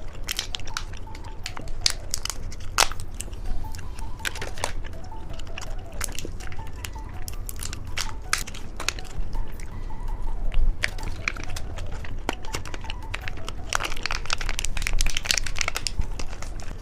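Close-miked candy eating: crisp crunching and crackling bites, mixed with crinkling, packed with sharp clicks throughout.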